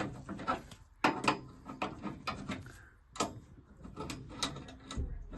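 A quick run of sharp clicks and knocks, hard parts and tools being handled and fitted inside a gas boiler, with a duller thud near the end.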